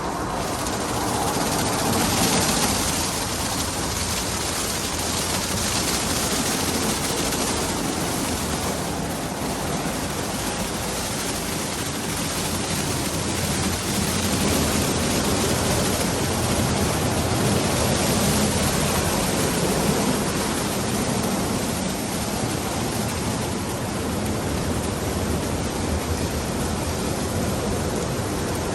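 Daifuku TWINFECT FORCE automatic car wash machine running over a car: a steady rushing of water spray and machinery that swells and eases every few seconds.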